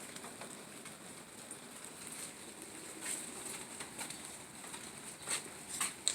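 Light rain falling steadily, with scattered drops tapping on nearby surfaces and a few sharper drips in the last second or so.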